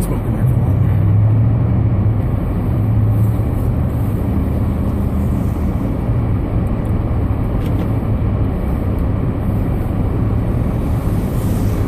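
Steady road noise inside a Ford Fusion's cabin while driving on a snow-covered road: a low engine and drivetrain hum under the rush of the tyres.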